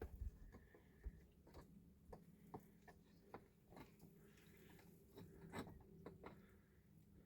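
Near silence: faint scattered clicks and light taps at irregular intervals over a faint steady hum.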